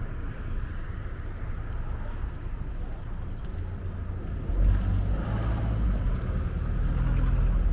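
The Hispaniola pirate-ship pleasure boat's engine running with a low, steady drone as she motors into the harbour, growing louder about halfway through as she comes closer.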